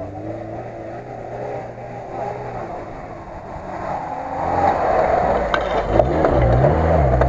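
Lada Niva engine approaching over rough dirt track, growing louder from about four seconds in, then revving up and down as the car climbs a hump and passes close by.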